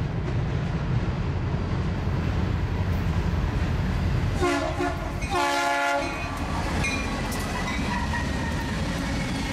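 Norfolk Southern freight train with diesel locomotives (SD60Is and a Dash 9-40CW) passing close by, engines rumbling steadily. About four and a half seconds in, the lead locomotive sounds its air horn for about a second and a half, then the rumble and clicking of the wheels and cars carry on.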